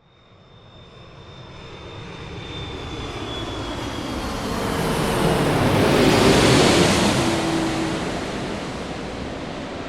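Airplane passing overhead: a steady engine rush that builds to a peak about six seconds in and then fades, with a faint high whine dropping slightly in pitch.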